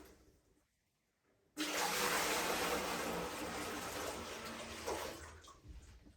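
Rushing water: a dense, even hiss that starts suddenly about a second and a half in, holds for about three seconds, then dies away.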